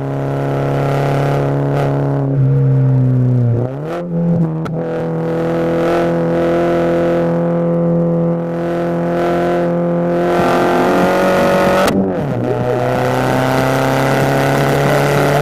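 Mini Cooper F56's turbocharged 2.0-litre four-cylinder engine, heard inside the cabin while driving. The engine note holds fairly steady, then drops and jumps back up in pitch about 4 s in and again near 12 s, each change with a sharp crack.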